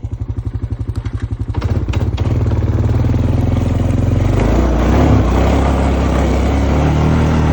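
Honda Foreman ES four-wheeler's single-cylinder engine idling with an even thump, then opened up about a second and a half in and held at higher revs under load for several seconds.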